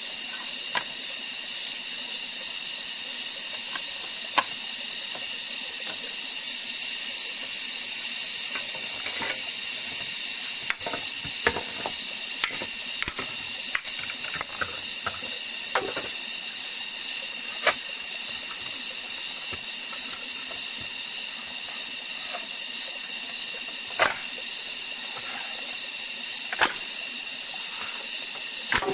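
Steady, high-pitched insect chorus of the kind heard in a rainforest, droning on without a break. Sharp knocks and clicks are scattered through it, about a dozen.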